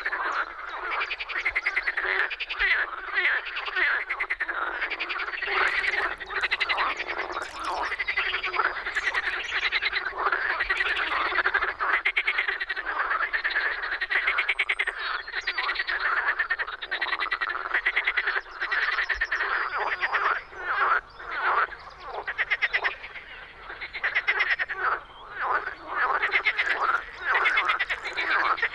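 Marsh frogs (Pelophylax ridibundus) calling in chorus: many rapid, pulsed, overlapping croaks with no pause.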